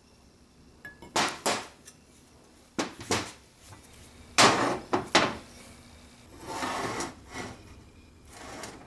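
Parts of an antique tobacco cutter being handled on a workbench: a series of sharp knocks and clatters, several in quick pairs, with a longer rubbing, scraping sound in the second half.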